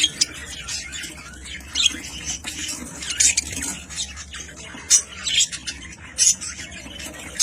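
Ornamental pet birds giving short, sharp squawks and chirps, scattered irregularly, with a few louder calls around the middle and near the end.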